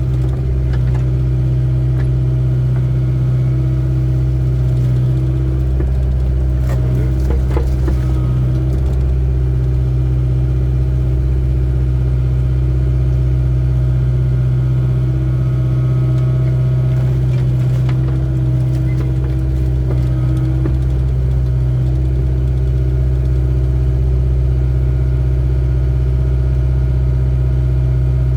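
Excavator's diesel engine running at a steady speed, a constant low hum with a few faint knocks about a quarter of the way in and again past halfway.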